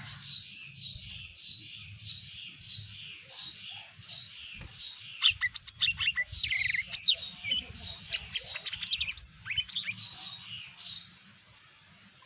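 Cucak ijo mini, a small green leafbird, singing: a run of repeated falling whistled notes, about three a second, then a burst of loud sharp chirps and rapid trills from about five seconds in, stopping shortly before the end.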